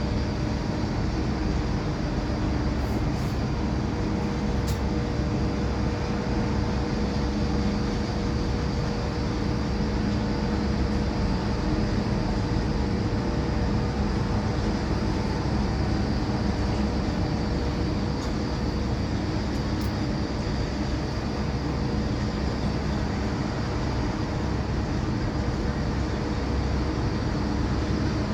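A steady mechanical drone: a deep, even rumble with several constant hums over it, unchanging throughout.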